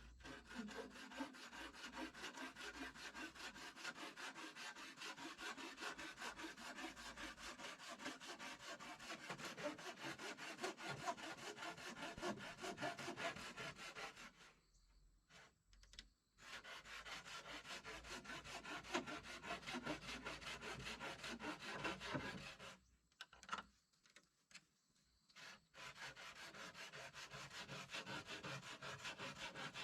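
A hand tool scraping through wood in a long run of rapid strokes, stopping twice briefly, about halfway through and again a few seconds later.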